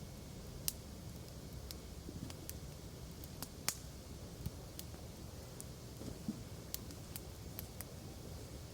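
Wood fire crackling: scattered sharp pops and snaps of varying strength over a low steady rumble of the burning fire.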